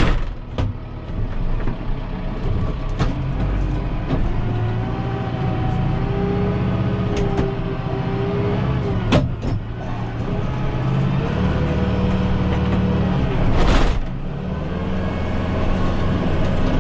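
Farm tractor engine running steadily, its pitch shifting a few times. A handful of sharp clicks and knocks, the loudest about 14 seconds in.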